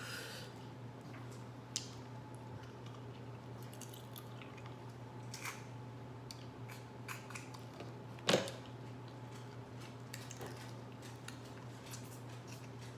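Eating seafood: scattered small clicks and crackles of shells being handled and chewed, with a sharp click about two seconds in and a louder crack about eight seconds in. A steady low hum runs underneath.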